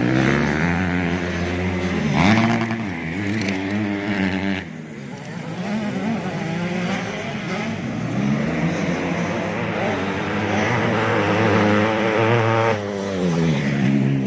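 85cc two-stroke motocross bikes racing, engines revving up and falling back again and again through throttle and gear changes, with a short drop in level about four and a half seconds in.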